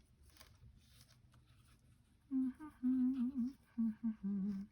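A woman humming a tune in sustained, wavering notes, starting a little over halfway in, after a quiet stretch with faint paper rustles.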